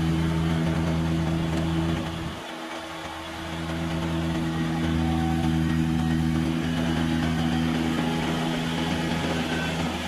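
Kubota tractor engine running steadily. It drops briefly about two seconds in, then picks back up.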